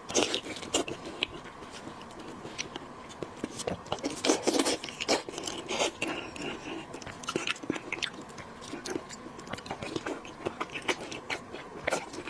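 Close-miked eating sounds: biting and chewing seafood in a chili-oil marinade, with irregular wet mouth clicks and smacks, busiest about four to five seconds in.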